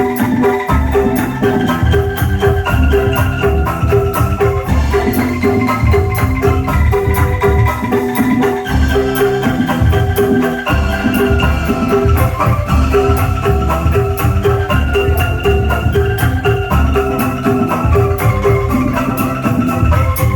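Angklung ensemble music played loud through a sound system: bamboo melody notes over a steady repeating beat and heavy, pulsing bass.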